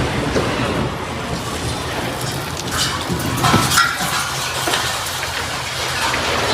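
Steady rushing and splashing like heavy water pouring, with a few sharp clinks and knocks about three to four seconds in.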